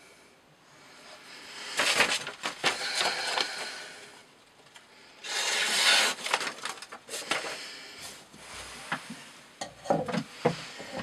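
Knife blade drawn through thick 20 mm rope with a rasping, fibrous sound, twice for about two seconds each, followed by a few short knocks and clicks near the end.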